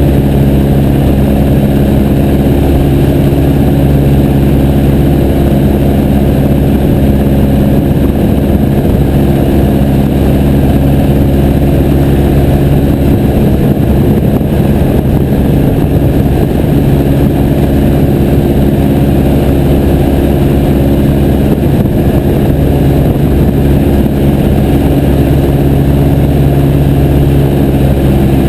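Piper J3 Cub's engine and propeller running loud and steady at an even speed.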